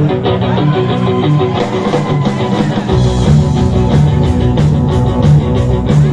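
Instrumental intro of a rock and roll song played by a band: guitar to begin with, then bass and drums coming in fuller and steady about halfway through.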